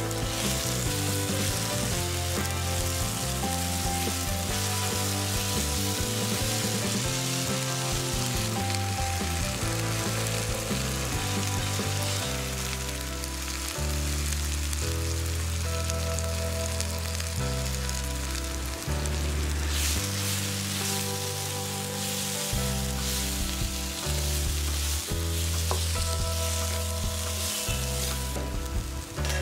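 Onion and tomato masala sizzling in oil in a nonstick kadai while it is stirred with a wooden spatula. Background music with held low notes plays underneath.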